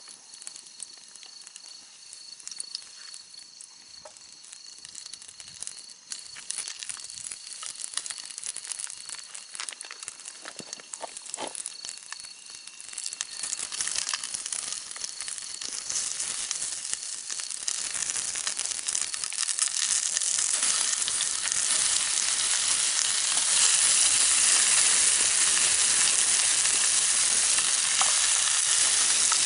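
Food sizzling in a mess tin over a campfire, the hiss growing steadily louder through the first twenty seconds and then holding steady, with scattered sharp crackles in the first half.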